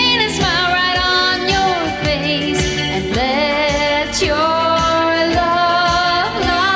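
A woman singing a sustained, wordless-sounding melodic line over a soft pop arrangement with a steady beat: the film's theme song.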